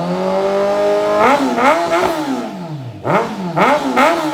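Kawasaki Z1000's inline-four engine revved through a full aftermarket exhaust with a bomb-style muffler. The revs climb and hold for about a second, then come several quick throttle blips; the revs fall back about three seconds in, and more sharp blips follow near the end.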